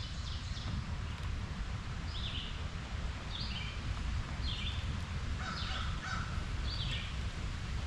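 A bird calling again and again, short high falling calls about once a second, over a steady low outdoor rumble.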